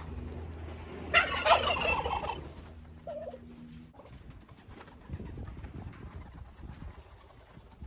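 A single loud bird call, starting about a second in and lasting about a second, broken up rapidly. A low steady hum underneath stops about four seconds in.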